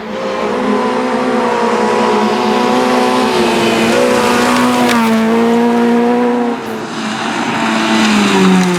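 Rally car engine running hard at high revs, its note wavering slightly with the throttle. It eases briefly about six and a half seconds in and falls in pitch near the end.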